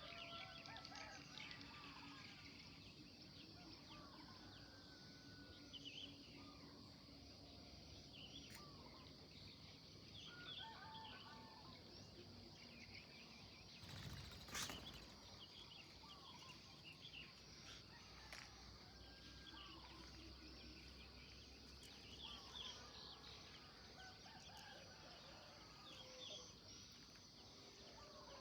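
Faint morning chorus of several songbirds chirping and calling, over a steady high-pitched insect drone. A brief crackle comes about halfway through.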